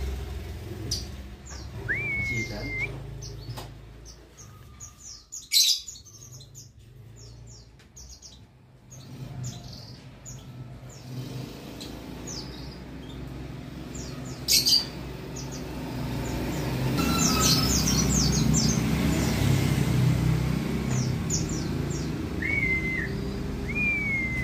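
White-eyes (pleci) calling: scattered short, sharp high chirps and a few brief whistled notes that rise and then level off, over a low traffic rumble that grows louder in the second half.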